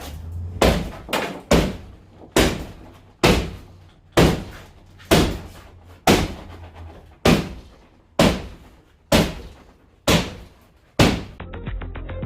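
A hammer striking timber about a dozen times, each blow ringing briefly. The first few come quickly, then about one a second, while the structure is being knocked apart. The blows stop shortly before the end, when music comes in.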